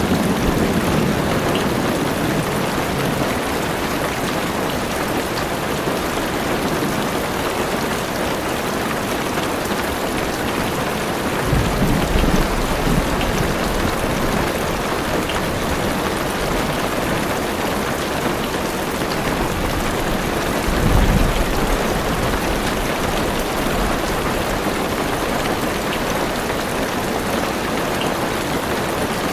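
Heavy rain pattering steadily on a car's roof and windows, heard from inside the car. Low thunder rumbles twice: once for a second or two about twelve seconds in, and again briefly about twenty-one seconds in.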